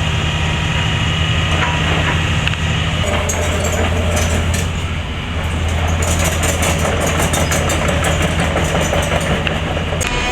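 Demolition excavator's diesel engine running steadily, with rattling and clanking of metal from about three seconds in.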